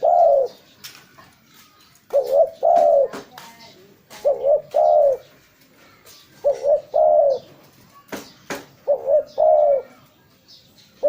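Spotted dove (tekukur) cooing, repeating its call about every two seconds: a quick double coo followed by a longer coo, five times over. A few sharp clicks fall between the calls.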